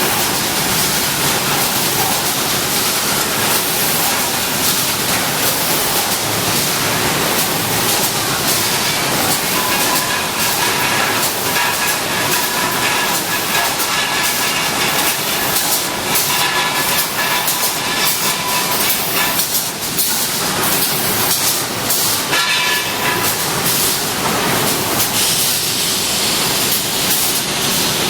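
Automatic mesh-bag cutting and sewing machine running: steady mechanical clatter with many sharp clicks. A high whine joins in about a third of the way through and fades out about two-thirds of the way through.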